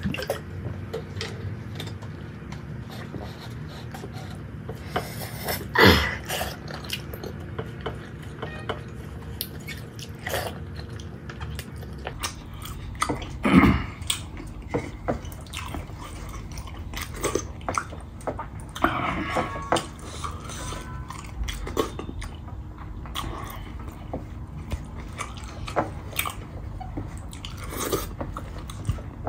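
Close-miked chewing and mouth sounds of a person eating rice and curry by hand, with many small clicks and smacks. Two louder sudden sounds come about six and fourteen seconds in.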